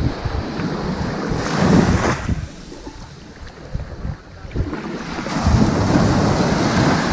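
Ocean waves breaking and washing up on a sandy beach: one wave swells and breaks about two seconds in, the surf quietens, then the next rolls in from about five seconds.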